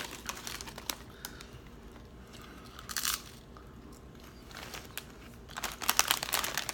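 Potato chips being bitten and chewed: scattered crunches, a louder burst about three seconds in, and a dense run of crackling near the end.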